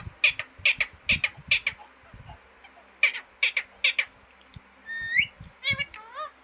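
Pet green parrot calling: a run of short, sharp squawks about twice a second, a pause, four more, then a rising whistle and a few wavering whistled notes near the end.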